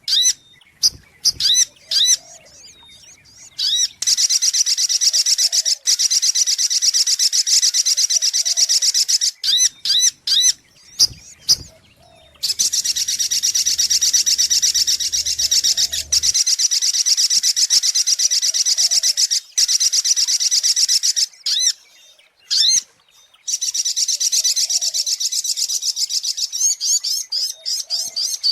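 Little spiderhunter (sogok ontong) calling: long runs of rapid, high chirps repeated many times a second, broken by short pauses and by brief separate call groups. A faint lower whistle recurs every couple of seconds underneath.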